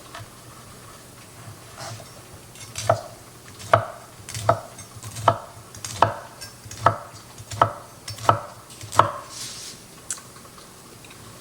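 Knife chopping through cornbread and knocking on the bottom of the baking pan: a regular series of about nine sharp knocks, one a little under every second, starting about three seconds in.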